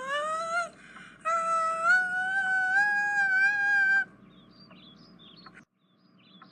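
A pet's high-pitched "singing" call: two long, wavering notes that rise slowly, the second held for nearly three seconds, followed by faint high chirps.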